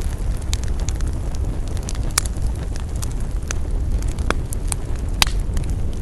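Wood fire crackling: sharp, irregular pops, roughly one or two a second, over a steady low rumble.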